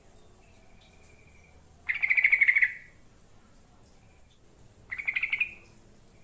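Yellow-vented bulbul (trucukan) singing: two short, rapid phrases, the first about a second long and louder, the second about three seconds later and shorter.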